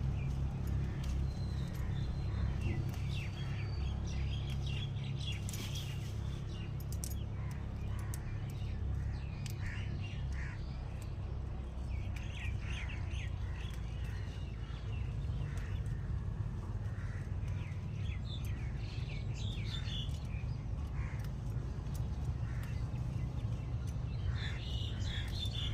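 Birds chirping, with short high calls coming again and again over a steady low rumble.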